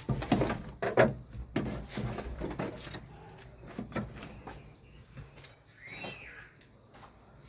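Clicks and knocks of hand work on a car door, tools and parts being handled, busiest in the first three seconds and sparser after. A short chirp-like squeak rises and falls about six seconds in.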